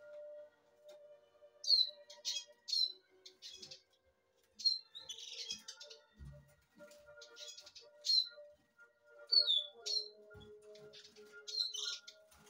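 Birds chirping: about a dozen short, high chirps, many sliding downward, scattered irregularly, over faint steady low tones.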